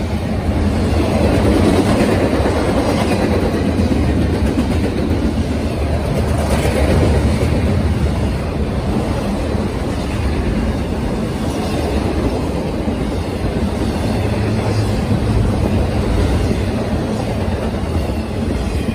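Intermodal freight train cars, double-stack container well cars and trailer-carrying flatcars, rolling past: a steady, loud rumble of steel wheels on the rails.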